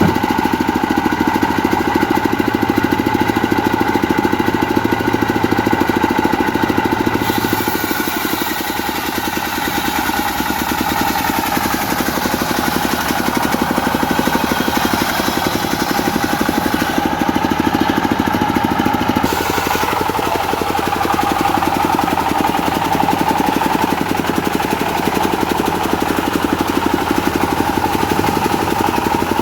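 A diesel engine runs a circular saw steadily, with a high hiss of the blade cutting through teak coming in about seven seconds in. The engine and blade pitch sag a little under the load of the cut a few seconds later.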